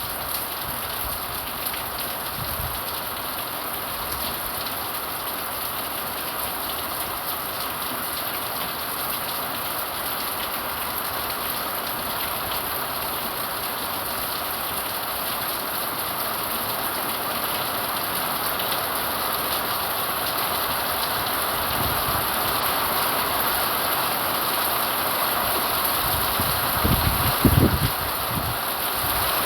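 Steady rain falling, a continuous hiss that grows gradually louder, with a few low thumps near the end.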